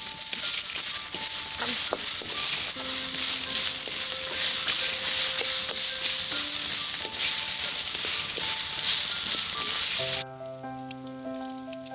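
Food sizzling in a hot frying pan, with the clicks of a utensil stirring it; the sizzling stops suddenly about ten seconds in. Soft background music with steady melodic notes plays throughout.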